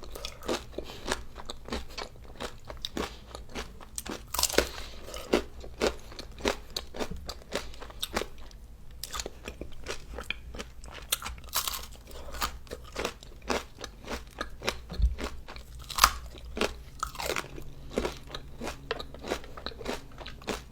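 Close-miked crunching and chewing of crunchy food: many sharp, irregular crunches with bites in between.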